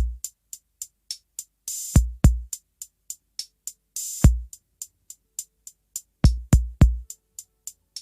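Electronic drum-machine beat: steady hi-hat ticks about three to four a second, with deep kick-drum hits in small clusters and two longer cymbal washes.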